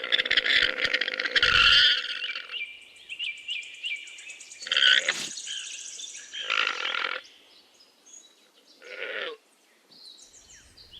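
Alpaca calling: a busy run of calls at first, then several separate cries with short quiet gaps between them.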